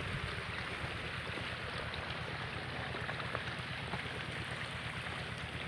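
Eicher 188 mini tractor's diesel engine running steadily under load as it drives a water pump, with the rush of pumped water pouring out.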